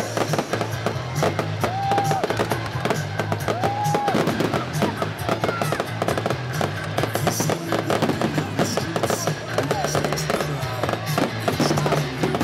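Fireworks crackling and banging over loud electronic music with a steady bass line.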